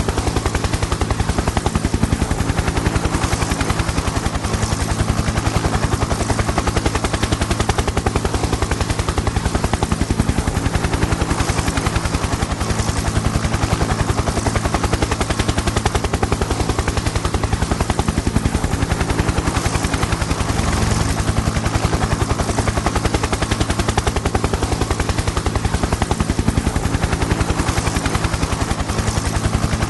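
Helicopter in flight: fast, even rotor-blade chop over a steady engine drone, holding constant with no change in pitch or loudness.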